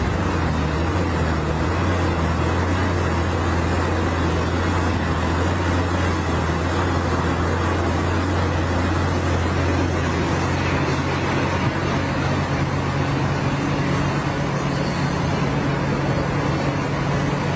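Steady motor vehicle engine and road noise: a continuous low drone under an even hiss, the drone shifting a little higher about halfway through.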